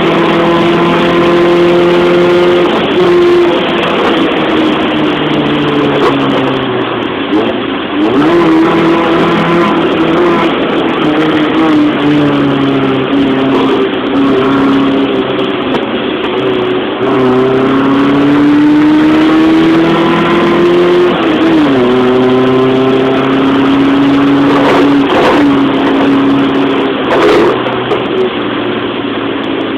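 Tata Nano's two-cylinder engine heard from inside the car under hard acceleration: its pitch climbs steadily through each gear and drops sharply at each upshift, about half a dozen times, over a steady hiss.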